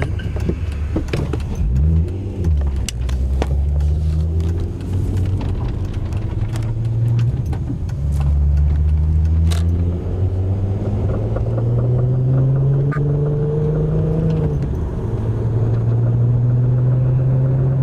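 2002 Volkswagen GTI's 2.8-litre 24-valve VR6 engine pulling under acceleration, its pitch rising and then dropping at gear changes, with sharp knocks scattered through it, most of them in the first few seconds. The knocking comes only under acceleration, which the owner takes for a drivetrain fault.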